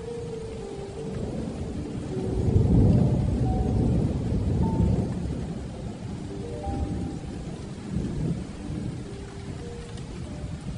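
Heavy rain pattering on a metal roof while thunder rumbles, swelling about two seconds in and dying away a few seconds later, with a smaller rumble near the end. A soft melody of held notes plays faintly over the rain.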